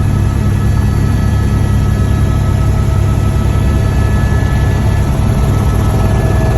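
Helicopter running: a steady, loud low drone with a few steady high whining tones above it.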